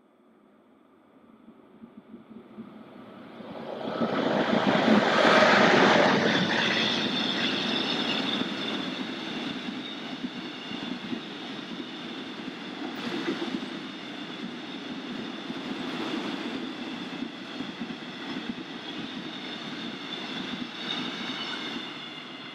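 A long freight train of tank wagons passing through a station on the near track. It builds up from nothing and is loudest about four to six seconds in, then settles into a steady rolling rumble with a few wheel knocks and a thin metallic ringing over it, easing off near the end as the last wagon passes.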